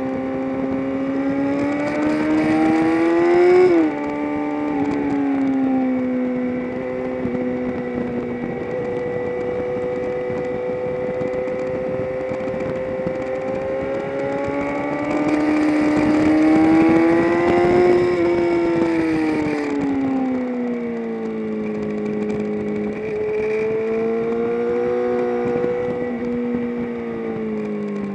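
Onboard engine note of a vehicle lapping a race track. The revs climb under acceleration and drop sharply on a gear change about four seconds in, then hold. They climb again past the middle and fall away near the three-quarter mark as the vehicle slows. A hiss rides over the top during the hardest pulls.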